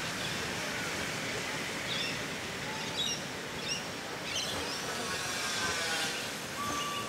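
Steady rolling noise of a train's passenger carriages moving away along the rails, with birds chirping briefly about two to four seconds in.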